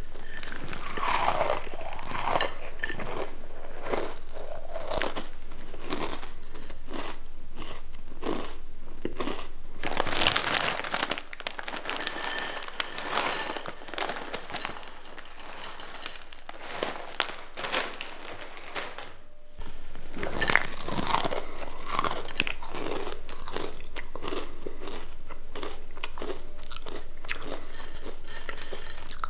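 Close-miked crunching and chewing of crisp potato sticks, bite after bite. In the middle comes a quieter stretch of a snack bag rustling and potato sticks clicking onto a plate as more are poured out, then the crunching starts again abruptly.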